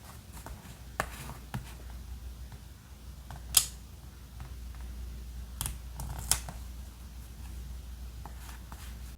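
Paper-crafting sounds for diary decorating: a scattering of short, sharp snips and taps of paper and tools, the loudest about three and a half seconds in and a few more close together around six seconds, over a low steady hum.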